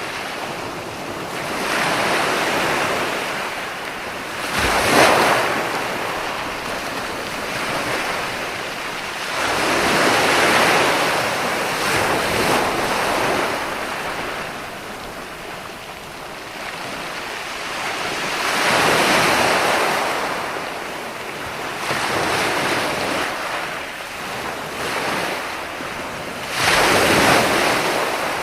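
Ocean waves breaking and washing in, a rush of surf that swells and fades every few seconds, with sharper crashes about five seconds in and near the end.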